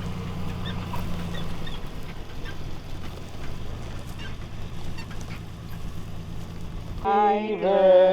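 A steady low hum like an idling engine, with faint high chirps over it. About seven seconds in, a voice starts singing loudly.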